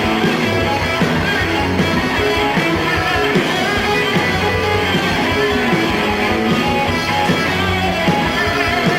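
Rock band playing live: a guitar-led instrumental passage with no vocals.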